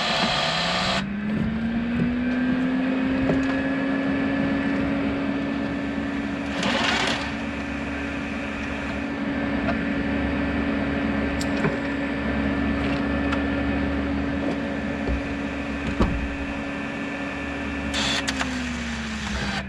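A motor vehicle picking up speed, running at a steady speed with a constant whine, then slowing near the end. There are two short rushing noises, about seven seconds in and again near the end.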